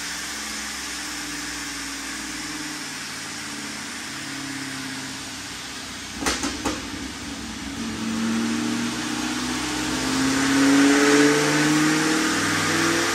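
Centrifugally supercharged Pontiac G8 GT V8 running on a chassis dyno, its engine speed stepping up and down, then climbing and getting louder in the second half. A quick cluster of three sharp knocks comes about halfway through.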